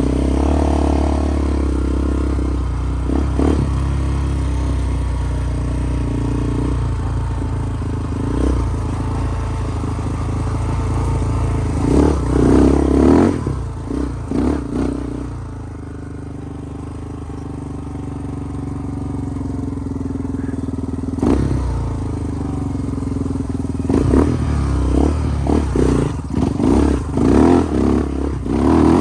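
Single-cylinder off-road vehicle engine running while riding a trail, with short bursts of throttle in the middle and several quick revs over the last few seconds.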